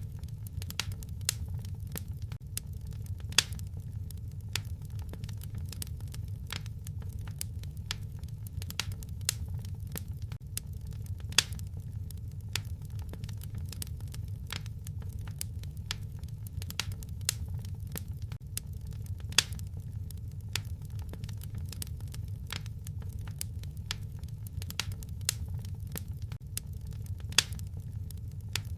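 Wood fire crackling in a fireplace: a dense run of small pops and crackles, with a few louder snaps every several seconds, over a steady low rumble.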